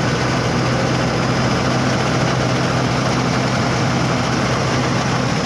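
Truck engine idling steadily, an even hum with no change in speed.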